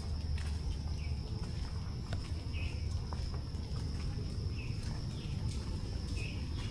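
Birds giving short chirps every second or two over a steady high-pitched insect drone and a low rumble.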